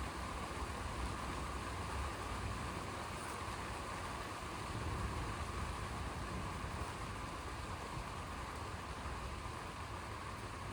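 Steady rain falling during a thunderstorm, an even hiss with a constant low rumble underneath.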